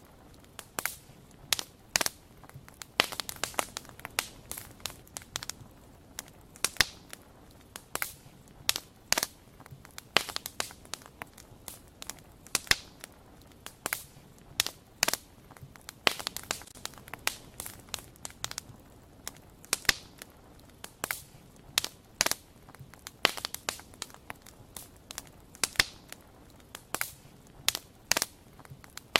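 Wood fire crackling: irregular sharp pops and snaps, sometimes several close together, over a faint soft hiss.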